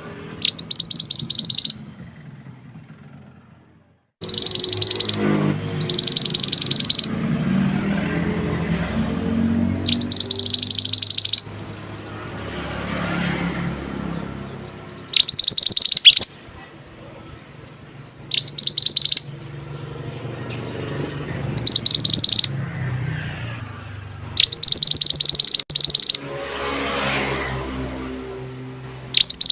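Burung mantenan, a small Indonesian songbird, singing a loud, tight, rapid high-pitched trill in bursts about a second long, about nine times, a few seconds apart, over a low steady rumble.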